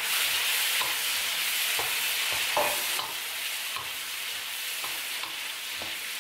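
Raw prawns sizzling in melted butter and garlic in a hot wok as a wooden spatula stirs them, with a few soft knocks and scrapes of the spatula against the pan. The sizzle eases slightly about halfway through.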